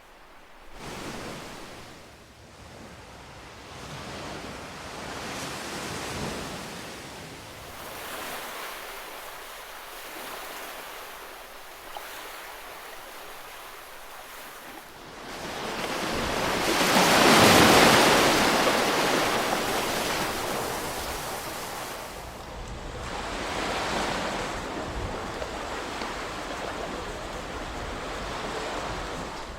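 Ocean waves breaking and washing in, in several slow surges that build and fade, the biggest one cresting a little past halfway.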